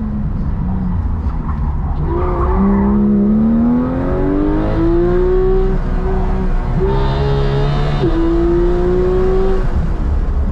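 Racing car's engine heard from the cockpit: light throttle at first, then accelerating hard at full throttle with its pitch rising steadily from about two seconds in. A quick drop in pitch about eight seconds in, then it climbs again before backing off near the end.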